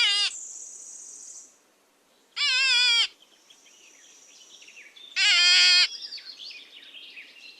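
Three short, wavering, bleat-like animal calls, a couple of seconds apart, each with a trembling pitch.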